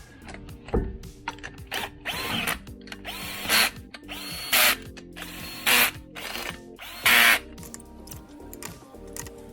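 Cordless power tool running in about five short bursts, each spinning up, as lug nuts are run onto the wheel.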